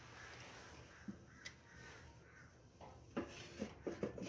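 Faint clicks and light knocks from handling the parts of a Stirling engine fan and its lit alcohol burner, with a few scattered ones early and a quick cluster near the end.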